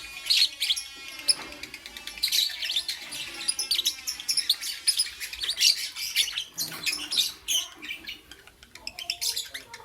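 Lovebirds chirping: a steady stream of rapid, high-pitched chirps and short squeaky calls.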